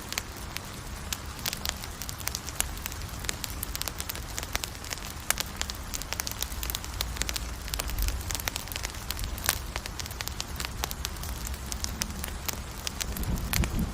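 Campfire burning, wood popping and crackling in irregular sharp snaps over a steady low rumble of flames.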